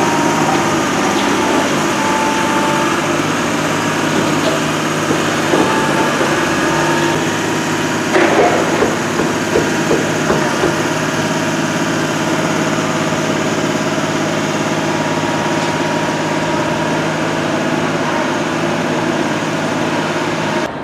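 An engine running steadily at idle, with a cluster of short louder sounds about eight seconds in.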